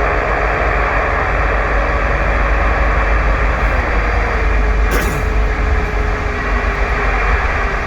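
Steady engine drone and road noise inside a semi-truck cab while driving, with a single sharp click about five seconds in.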